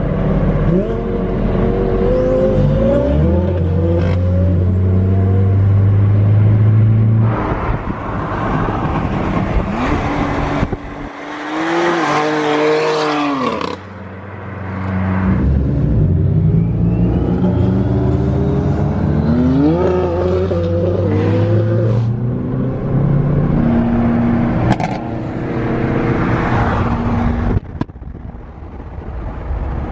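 Twin-turbo Audi R8 V10 engine held at high revs during donuts, with repeated rising revs and a burst of tyre-spin noise partway through.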